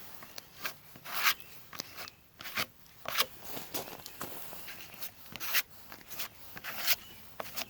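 Irregular scraping strokes of a spreader working fibre-filled filler into the holes of a fiberglass sailboat rudder, about a dozen short scrapes.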